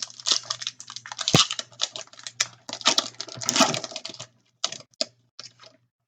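Hockey trading cards being handled and flipped through: a dense run of clicks and rustles for about four seconds, then a few separate clicks near the end.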